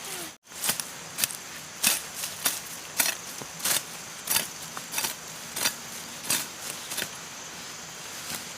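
Hoe chopping into soil and weeds in a steady rhythm, about one and a half sharp strikes a second.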